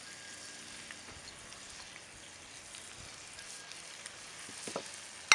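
Ground beef and freshly added chopped onion sizzling steadily in a cast iron skillet on a grill, with a sharp click right at the end.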